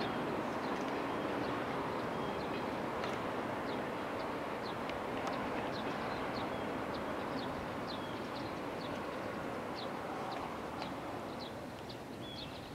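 Electric train running away into the distance, its rumble fading slowly, while small birds chirp many times over it.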